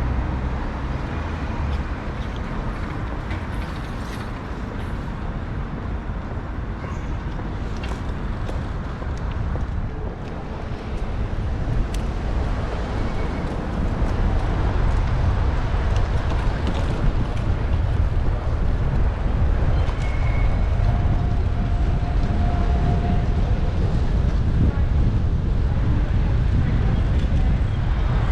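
Wind rumble on a bicycle-mounted action camera's microphone while riding, mixed with passing road traffic. It gets louder about halfway through.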